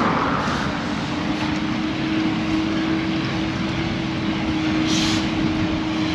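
Headwind rushing over the microphone of a moving road bike, an even noise with a steady hum underneath and a brief hiss about five seconds in.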